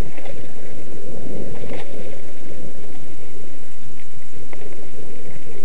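Mountain bike rolling over a dirt trail: steady low rumble of tyres and wind buffeting the microphone, with a few sharp clicks and rattles.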